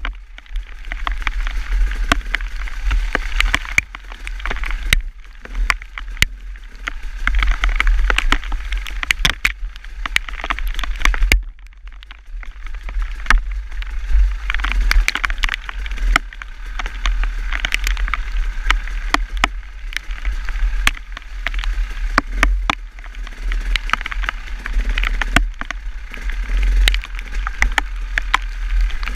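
Steady wind rumble on the microphone, with many scattered sharp ticks and clicks throughout and a brief lull about twelve seconds in.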